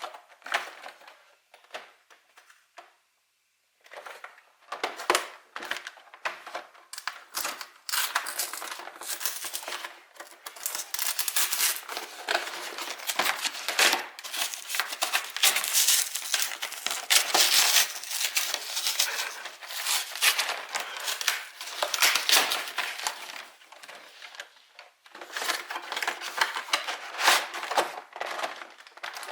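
Plastic wrapping and packaging on a trading-card collection box being crinkled and torn open by hand. It starts with a few faint ticks, turns into dense, continuous crackling about four seconds in, pauses briefly near the end, then starts again.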